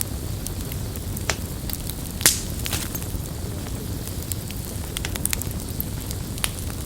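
Campfire burning: a steady low rush of flames with scattered wood crackles and pops, one loud pop about two seconds in.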